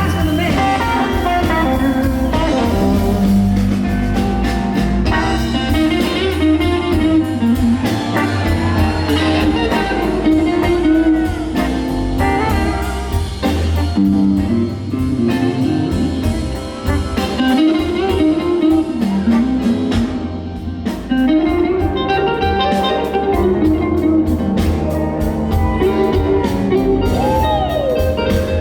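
Live blues band playing an instrumental passage: an electric guitar solo with bending, gliding notes over bass and drums.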